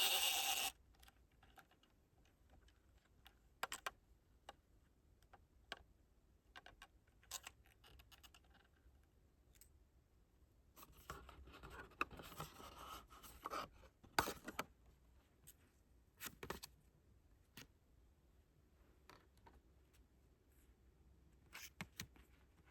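Quiet handling of an album package's paper and plastic pieces: scattered light taps and clicks, with a stretch of rustling and scraping around the middle.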